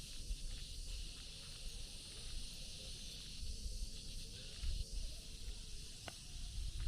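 Steady high-pitched hiss of an insect chorus, with low wind rumble on the microphone.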